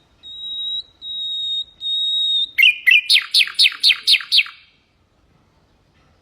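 Common nightingale singing: three long, steady, high whistled notes, then a loud, fast run of about eight falling notes that stops about four and a half seconds in.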